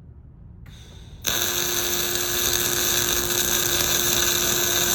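Welding arc struck after a short hiss about a second in, then burning steadily: a loud even buzzing hiss with a steady hum underneath.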